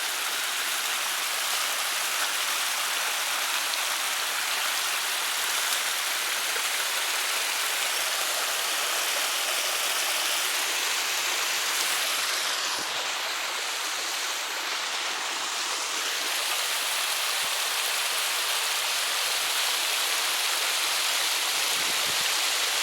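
Creek water rushing over a waterfall: a steady, even rush of falling water.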